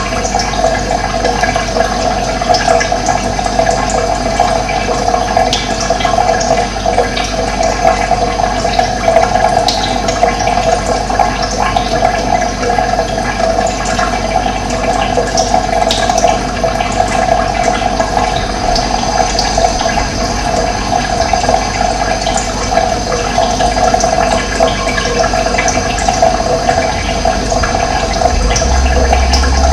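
Running water flowing steadily, an even rushing sound, with a few short high bird chirps over it.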